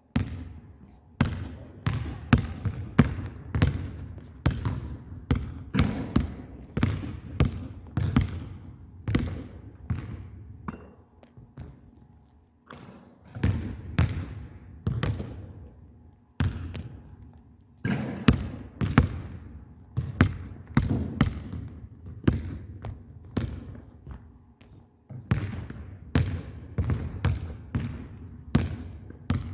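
Basketball bouncing on a gym floor over and over, several bounces a second, each with a ringing echo from the hall, with a few short pauses between runs of bounces.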